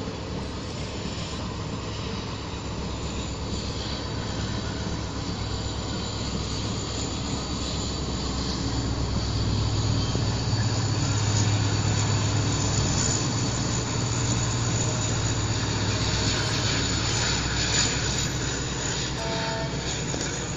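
Indian Railways passenger coaches rolling past on the rails, a steady low rumble of wheels and running gear that swells in the middle and eases off toward the end.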